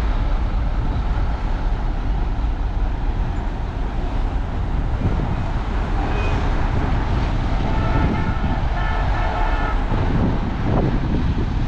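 Heavy diesel earthmoving machinery running steadily under load. Between about six and ten seconds in, a broken high-pitched tone sounds over the engine.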